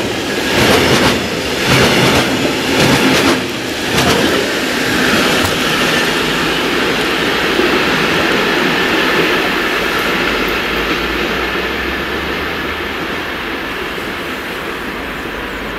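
Freight train of hopper wagons passing close by, its wheels clacking rhythmically over rail joints for the first few seconds. After that the train's rumble and the hiss of the rails fade steadily as it rolls away.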